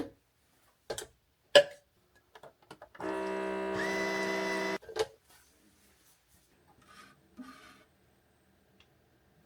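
A small electric motor runs with a steady buzz for about two seconds, a higher tone joining partway through, after a few sharp clicks and taps.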